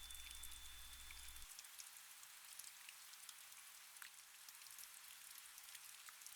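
Faint steady rain with a patter of individual drops. A low hum and a thin high tone underneath it cut off about a second and a half in.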